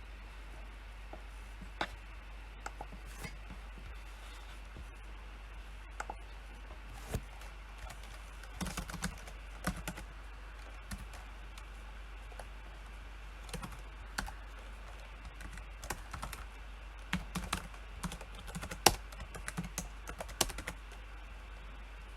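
Typing on a computer keyboard in short irregular runs of keystrokes with pauses between them, the densest runs about halfway through and near the end, over a faint steady low hum.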